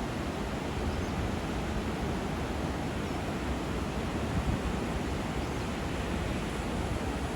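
Steady rushing of river water at an intake weir, an even noise without breaks.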